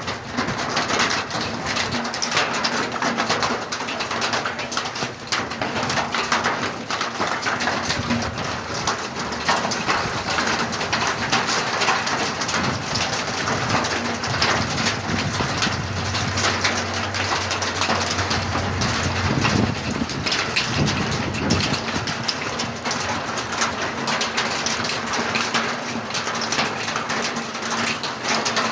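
Heavy rain pouring down in a dense, steady patter of drops, with a low hum for a few seconds past the middle.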